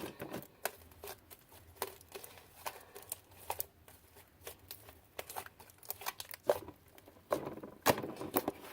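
Scattered clicks, taps and crinkles of plastic containers and slime being handled during clean-up, irregular and fairly quiet.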